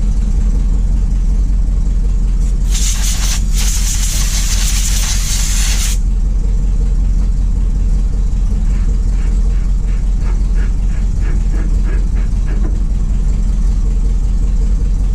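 Ford F700's 370 V8 gas engine idling steadily through a leaky exhaust. A few seconds in, a loud hiss of air lasts about three seconds, and later comes a run of light clicks.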